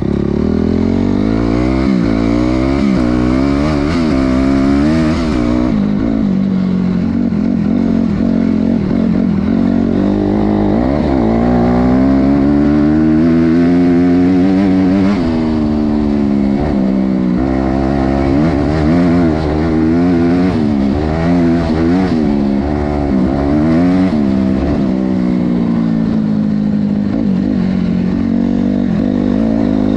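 Honda CRF250R dirt bike's four-stroke single-cylinder engine being ridden hard, its note climbing and dropping back over and over as it is revved up and eased off.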